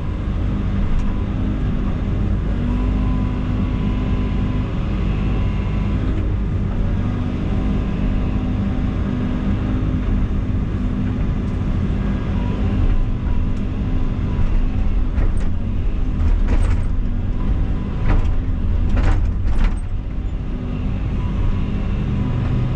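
Excavator's diesel engine running steadily under load as the machine pushes on a tree, with a few sharp cracks or knocks in the later part.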